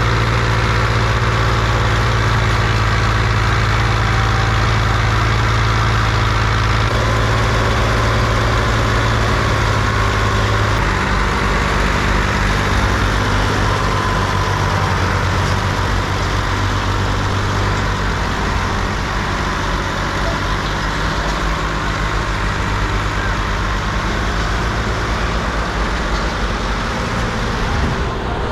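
Tractor engine running steadily under load, its note stepping a little lower about a third of the way in.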